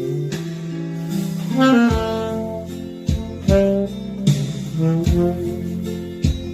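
Saxophone playing a slow, held-note melody over a backing accompaniment with a beat.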